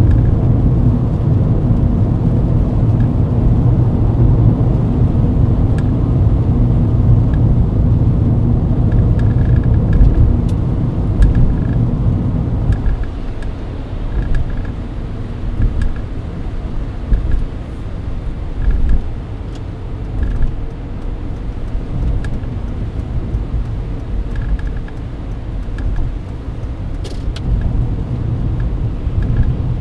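Mercedes-Benz W124 driving on the expressway, heard from inside the cabin: a steady low rumble of engine and road noise that drops about halfway through as the car slows.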